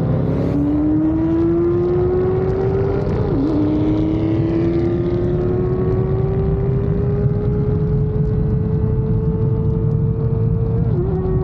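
Motorcycle engine running steadily under way, its pitch climbing slowly as it accelerates. The pitch dips briefly at a gear change about three seconds in and again near the end.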